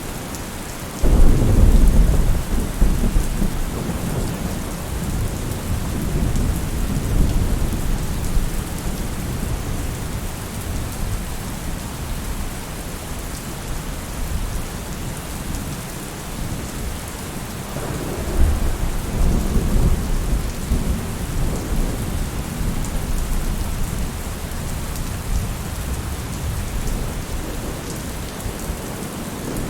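Steady rain falling, with two rolls of thunder: one breaks suddenly about a second in and rumbles for several seconds, and a second rumbles in about eighteen seconds in.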